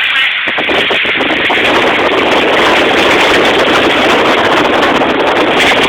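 A car driving through floodwater, heard from inside the cabin: a loud, steady rush of water against the vehicle and under its tyres.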